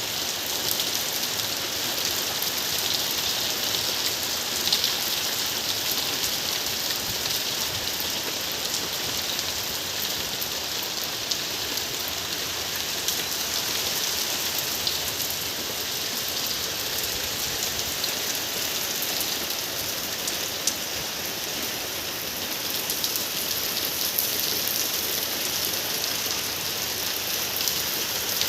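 Steady rain falling, an even hiss with a few sharper drop hits scattered through it.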